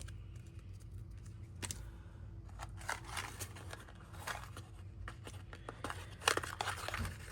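Paper and craft materials being handled: scattered rustles, light taps and snips, with a sharper tap about six seconds in.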